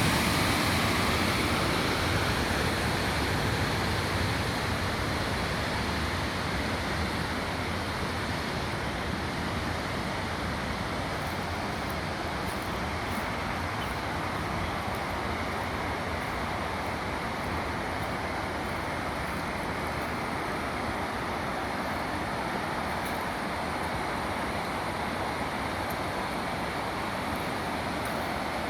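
Waterfall: a steady rush of falling water, easing slightly over the first few seconds and then holding even.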